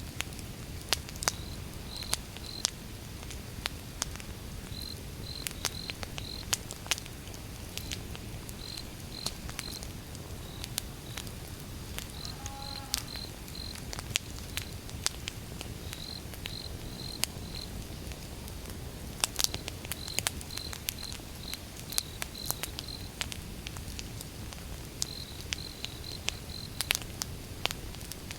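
Wood fire burning, with irregular sharp crackles and pops over a low rumble. A cricket chirps throughout in short high trills of three or four pulses, repeating every second or two.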